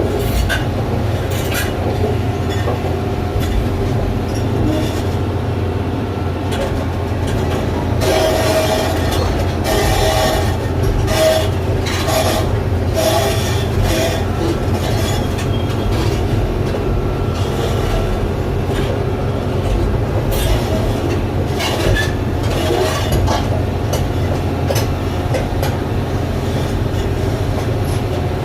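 Doosan DX420LC crawler excavator travelling, its engine giving a steady low drone under repeated clanking and short squeals from the running gear, thickest from about eight seconds in.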